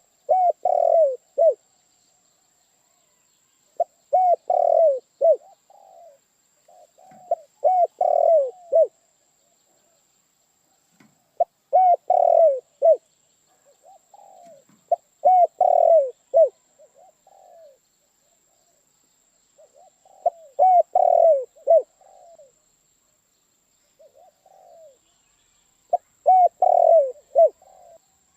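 Spotted dove (tekukur) cooing: a phrase of several low coos repeated about every three to four seconds, with softer coos between the loud phrases.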